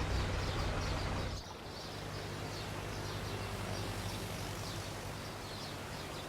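A vehicle engine running with a steady low hum that cuts off about a second and a half in, giving way to faint outdoor background noise.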